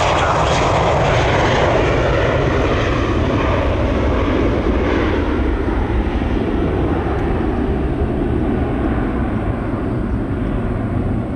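Jet airliner's engines passing close by, a loud, dense rush over a deep rumble, the higher part of the noise fading gradually through the second half as the aircraft moves away.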